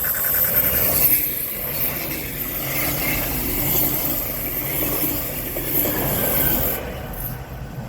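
Train passing close by: a loud, steady rushing rumble of wheels on rails that drops off sharply about seven seconds in, as the end of the train goes by.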